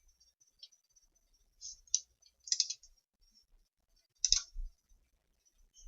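Faint clicking in a few short bursts, the loudest a little after four seconds in, with near silence between them.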